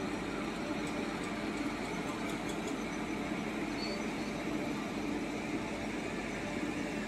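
Slow-moving Ro-Ro freight train passing: an Indian Railways electric locomotive followed by flat wagons carrying loaded lorries. It makes a steady rolling rumble with a faint hum and no distinct wheel clicks.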